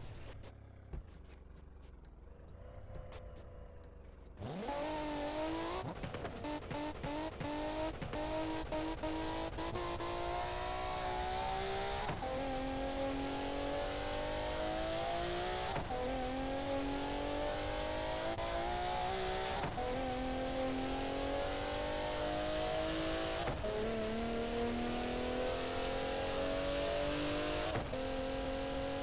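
Alfa Romeo Giulia's exhaust under hard acceleration. After a quieter idle, the engine note jumps up suddenly about four seconds in, with a few sharp crackles. Then it pulls up through the gears: the pitch rises steadily, drops at each upshift, and climbs again about every four seconds.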